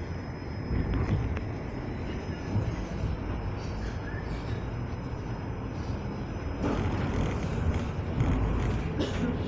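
Steady low rumble of a train rolling out of a station, heard from inside the carriage; it grows louder and harsher about two-thirds of the way through.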